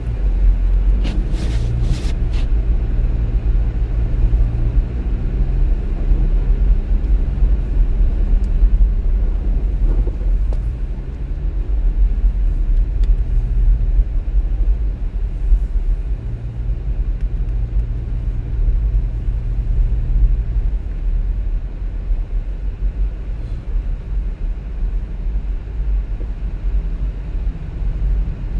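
Car driving along: a steady low rumble of engine and road noise, with a few short clicks about a second or two in.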